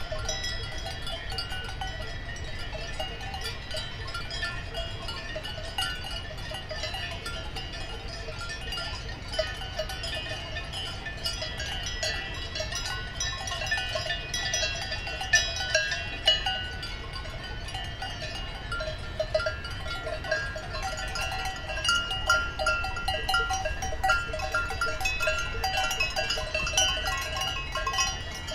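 Many cowbells on grazing cattle clanking irregularly and without pause, several bells at different pitches ringing over one another, with a few louder clanks now and then, over a low steady rumble.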